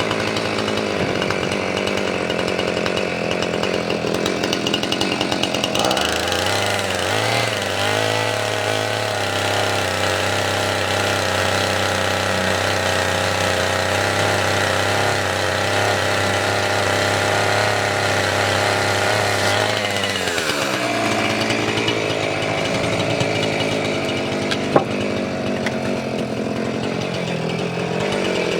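Gasoline chainsaw running at idle, revved up to high speed about six seconds in and held there for some fourteen seconds, then dropping back to idle. A single sharp click comes near the end.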